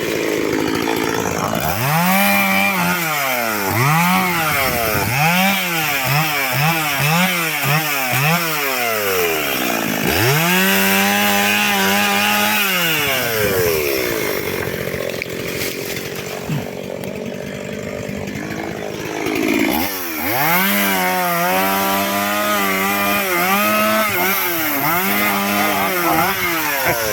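Chainsaw cutting firewood logs. The engine revs up and sags again in quick repeated cycles as the chain bites into the wood, holds high through a longer cut, drops lower for a few seconds in the middle, then returns to a run of rising and sagging revs.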